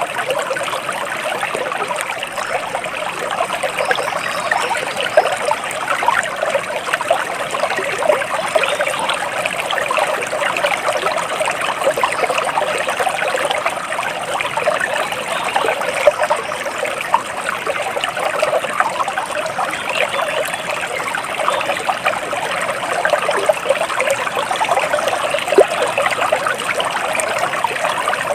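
Water flowing and trickling steadily in a small stream, a continuous rush of splashes and babbling.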